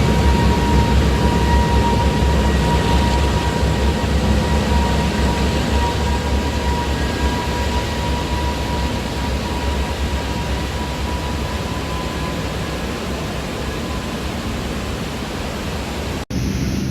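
Lockheed Super Constellation's piston radial engines running, a steady heavy drone with a thin whine, slowly getting quieter. The sound cuts off briefly near the end.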